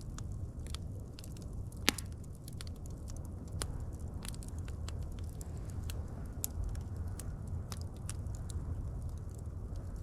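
Wood fire crackling, with scattered sharp pops and snaps over a low steady rumble of burning; one pop about two seconds in is much louder than the rest.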